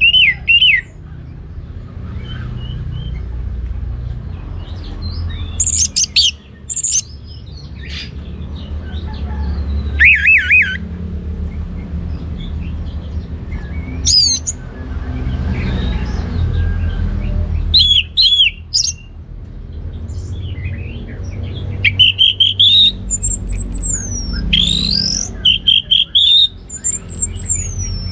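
Orange-headed thrush singing short phrases of quick warbling and sliding whistles, several seconds apart, over a steady low background hum.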